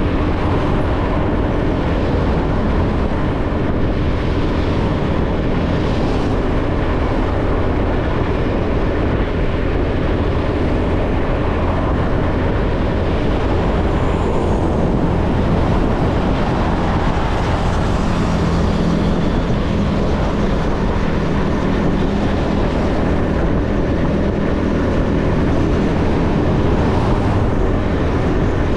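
Motorbike riding along a road: a steady engine hum mixed with the rush of wind and road noise.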